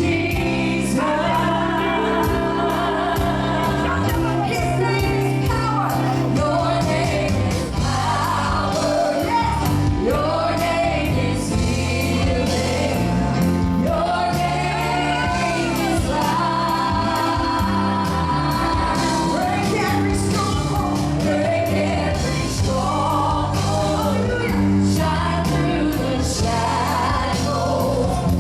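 Gospel worship music: singers, sounding like a choir, over a steady band accompaniment with a regular beat.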